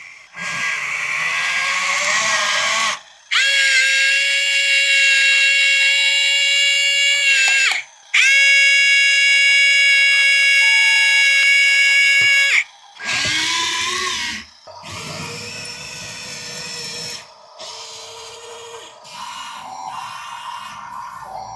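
Tiny electric gear motors of a 1/50-scale mini RC tracked dump truck whining at high speed in runs of a few seconds each. The pitch sags as each run stops, with two long steady runs in the middle.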